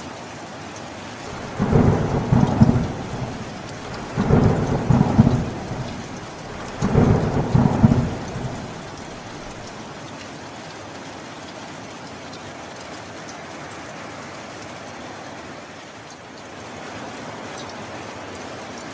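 Steady heavy rain with three loud rumbles of thunder in quick succession during the first half, then rain alone.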